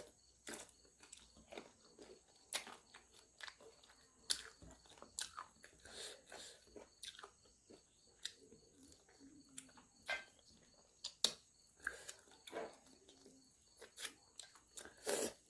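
A person chewing soft chicken wings, with irregular wet mouth clicks and smacks.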